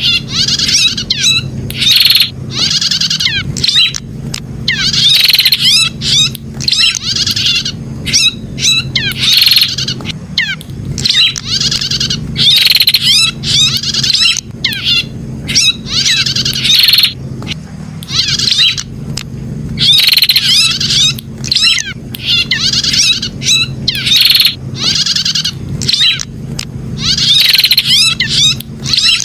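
Prenjak (prinia) song: rapid, high twittering phrases about a second long, repeated with short gaps, over a steady low hum.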